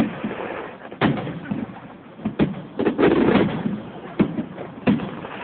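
Aerial fireworks shells bursting: a series of sharp booms a second or so apart, with a longer, denser run of bursts around the middle.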